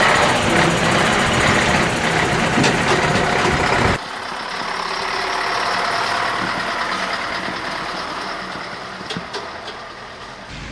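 Truck diesel engine running. About four seconds in, the sound cuts to a quieter vehicle engine that swells and then fades away.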